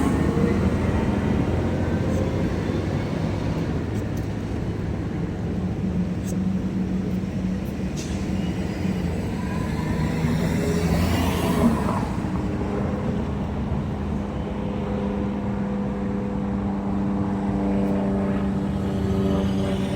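Steady engine and road noise of a moving vehicle on the ride, with a hum that holds a steady pitch. Another vehicle swells past about eleven seconds in.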